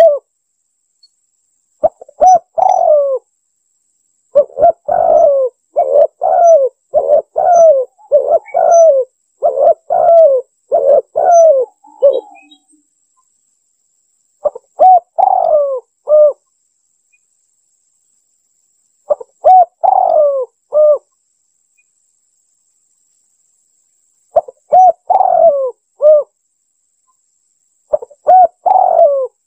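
Spotted dove cooing: repeated short phrases of soft, curving coos, played as a trapper's lure call. A dense run of phrases fills the first half, then single phrases come every four or five seconds with silent gaps between.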